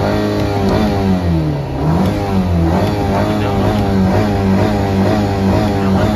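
Car engine revved hard by quick repeated stabs of the accelerator pedal, its pitch rising and falling about three times a second.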